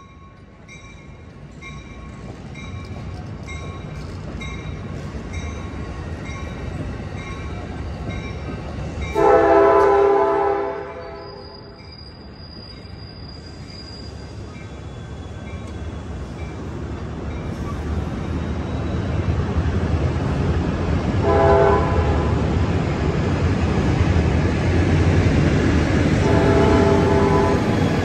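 Departing Amtrak San Joaquin push-pull train sounding its air horn, taken for a Nathan K5, three times: one long blast about nine seconds in, then two shorter ones near the end. Under the horn the train's rumble grows as the rear Siemens SC-44 Charger diesel locomotive draws past. A bell dings about one and a half times a second for the first several seconds.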